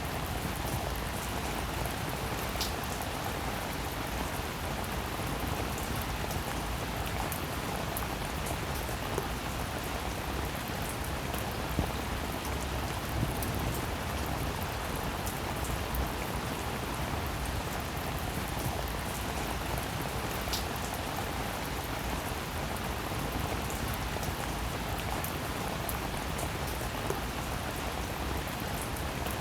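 Steady rain falling: an even hiss of rain with scattered sharper ticks of single drops, two of them standing out.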